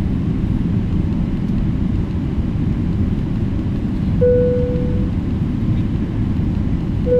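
Steady low cabin rumble inside a taxiing Boeing 777-300ER. About four seconds in a single-tone cabin chime sounds and fades out, and a second chime begins right at the end.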